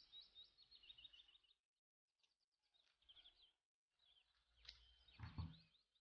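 Faint chirping of small birds in quick trills, heard in short bursts. A louder soft bump comes about five seconds in.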